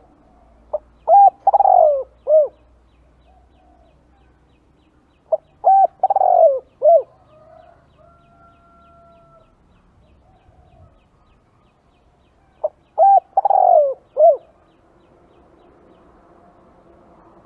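Spotted dove cooing in three phrases several seconds apart. Each phrase is a short note, a quick pair of coos, a long falling coo and a final short coo.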